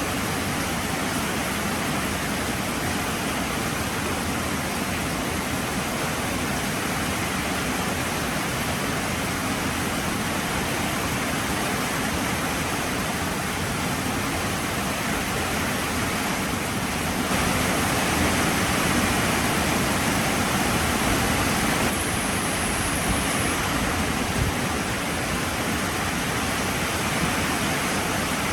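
Heavy rain falling steadily, a dense even hiss. It swells louder for about five seconds past the middle, then eases back.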